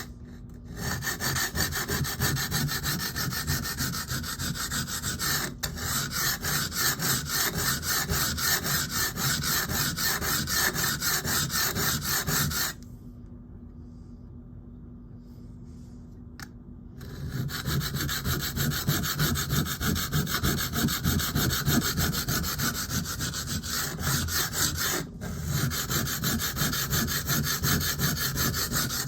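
Steel knife blade being ground on a wet, worn Atoma 140 diamond plate: rapid back-and-forth scraping strokes, with a pause of about four seconds near the middle. The tip is being reshaped by grinding material away from the spine side.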